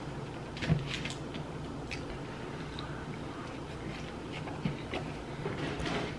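Close-miked chewing of chili-covered fries, with wet mouth smacks and a plastic fork clicking and scraping among the fries in short scattered ticks.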